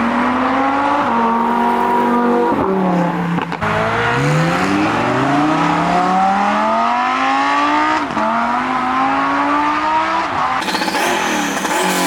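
A high-performance car engine accelerating hard, its pitch climbing through the gears, with upshifts about three seconds in and again about eight seconds in. A burst of hiss comes in near the end.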